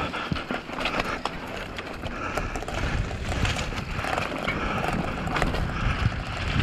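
Downhill mountain bike rattling and clattering over rocks, with many sharp knocks from the bike and a steady low rumble of wind on the microphone.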